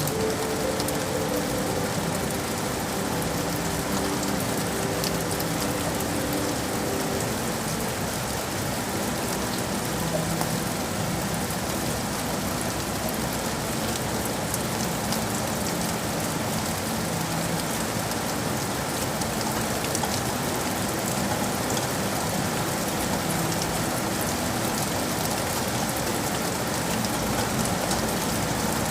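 Steady heavy rain falling on city surfaces, a dense, even hiss of many drops that holds at one level throughout.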